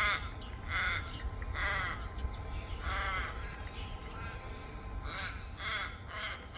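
A crow cawing: a string of about seven harsh caws, three in the first two seconds, one at about three seconds, then a pause and three more near the end.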